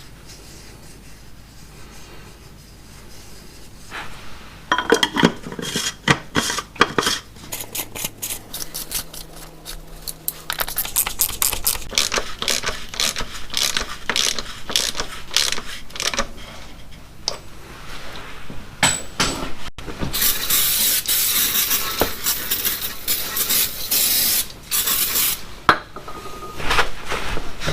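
Metal tools and parts clinking and rattling during hands-on work on the car, with a long run of rapid clicks and, near the end, a few seconds of hissy rubbing noise.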